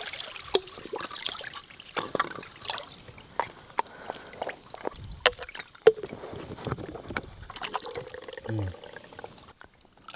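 Irregular splashing and sloshing steps through shallow creek water, with sharp clicks of feet or poles on stones. From about halfway, a steady high insect drone joins in.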